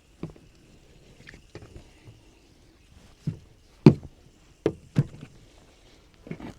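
Knife and raw pork cut knocking and thudding on a cutting board as the meat is trimmed and moved: a handful of scattered knocks, the loudest about four seconds in.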